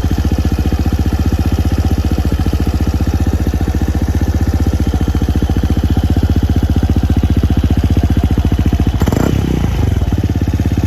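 Suzuki Address V125S scooter's single-cylinder four-stroke engine idling steadily through an SP Tadao Pure Sport aftermarket muffler, with one quick throttle blip near the end that rises and drops back to idle.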